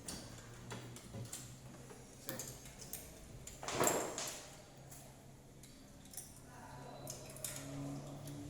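Metal tools and engine parts clinking and clattering now and then during a cylinder head overhaul, with one louder clatter about four seconds in, over a low steady hum.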